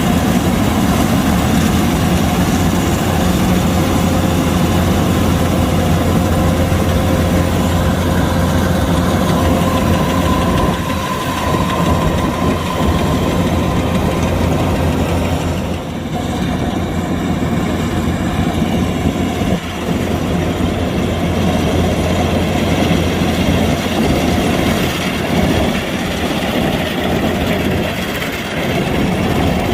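Kubota DC-105X combine harvester running steadily, its engine and machinery making a continuous dense drone, with a faint whine about ten seconds in and a few brief dips in level.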